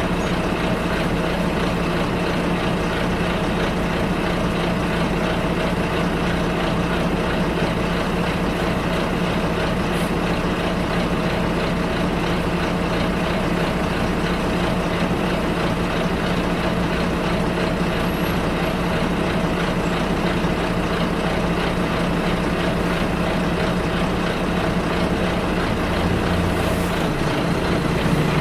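Bus engine running at a steady drone with road noise, heard from inside the passenger cabin. Near the end the engine note drops in pitch.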